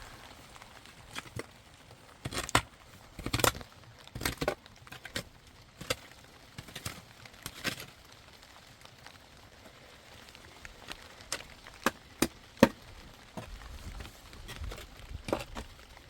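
A series of irregular sharp knocks and cracks, a dozen or so with uneven gaps. A cluster comes a few seconds in, and the single loudest knock falls about three quarters of the way through.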